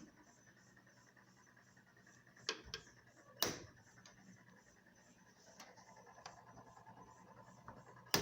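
Two agitator washing machines running a wash with faint steady churning, broken by a few sharp knocks about two and a half and three and a half seconds in.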